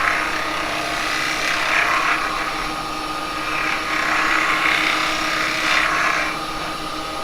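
Axminster 1628 wood lathe running steadily with a constant motor whine, while a block of beeswax is pressed against the spinning cherry wood, adding rough rubbing hiss that comes and goes.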